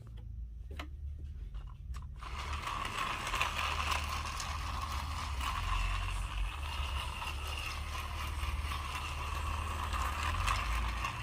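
Battery-powered motorized Thomas and Percy toy trains running: a steady whir of small electric motors and plastic gears. There are a couple of clicks near the start, and the whir grows louder about two seconds in.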